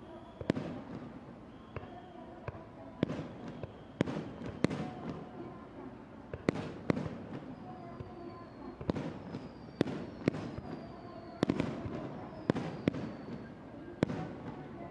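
Aerial fireworks shells bursting in an irregular string of sharp bangs, sometimes two close together, each trailing off in a short rumble. Faint, slowly falling whistles sound between the bangs in the second half.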